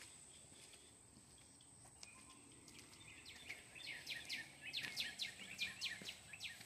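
A bird chirping in a quick series of short, high, falling calls that start about halfway through, over a faint steady outdoor hiss and a thin high steady tone.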